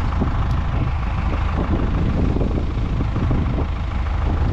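Tractor engine running steadily while mowing hay.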